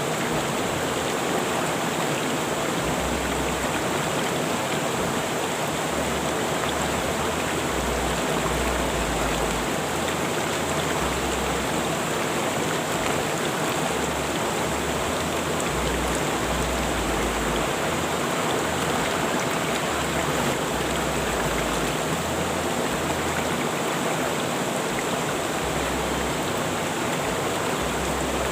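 Rushing river water flowing steadily, a dense, even rush with no breaks.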